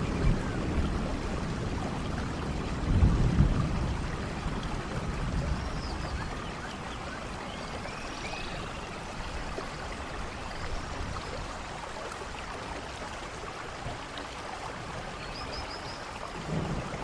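Steady rainforest rain with a low rumble of thunder about three seconds in and again near the end. Short high bird calls come now and then over the rain.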